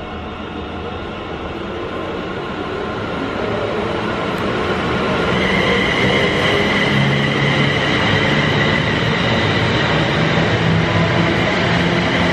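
Electric multiple-unit passenger train running past close by on the near track. Its rail and wheel noise builds over the first few seconds, then holds loud, with a steady high whine joining about halfway.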